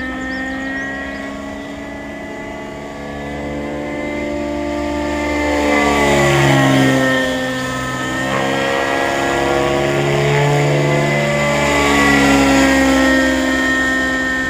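The AS90's newly replaced engine running with its new muffler, near the end of break-in, without popping or backfiring. Its pitch dips and rises again twice.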